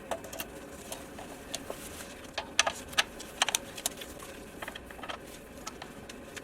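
Irregular light clicks and taps at uneven intervals over a faint steady hum.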